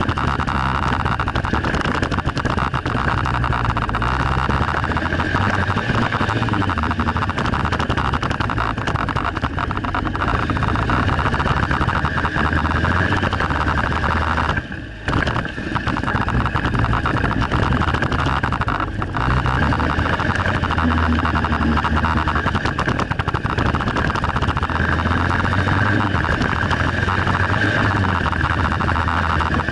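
Honda CRF230 dirt bike's single-cylinder four-stroke engine running hard as it is ridden round a motocross track, the pitch rising and falling with the throttle. The sound drops off briefly about halfway through.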